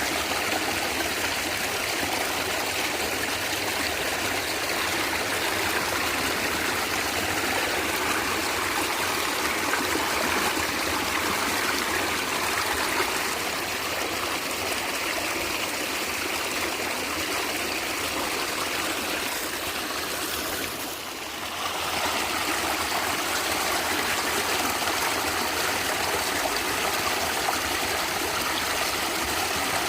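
A natural stream gurgling and trickling steadily, with a brief dip in loudness about two-thirds of the way through.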